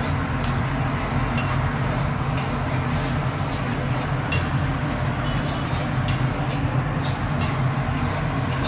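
Onions frying in hot oil in a large pan: a steady sizzle over a low rumble, with a few light clinks of metal utensils against the pan.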